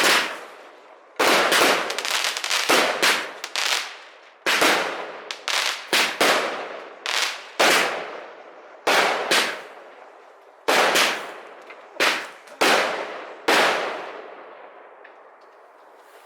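Fireworks going off in a rapid, irregular string of about twenty loud bangs, each trailing off in an echo. They come thickest in the first half and stop a couple of seconds before the end.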